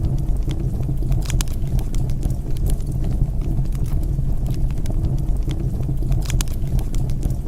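Wood fire in a fireplace crackling: scattered sharp pops and snaps over a steady low rumble of the flames, with small bursts of pops a little over a second in and again about six seconds in.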